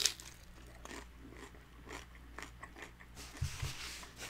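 A bite into a crunchy fried birria taco, with a sharp crunch right at the start, then chewing with faint crackles of the fried tortilla. A brief low hum comes near the end.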